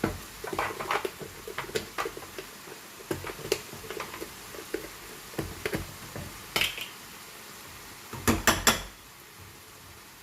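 Kitchen utensils clinking and tapping against a pan and containers while seasoning is added: a scatter of light clicks and taps, then three louder knocks near the end.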